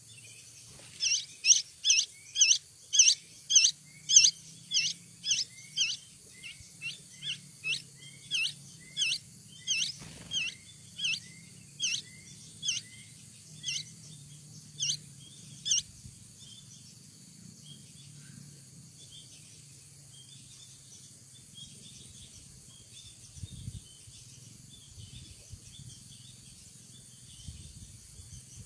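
Bulbul (kutilang) chirping: a run of short, sharp, high calls about two a second for some fifteen seconds, loudest at the start and growing weaker, then only faint scattered chirps.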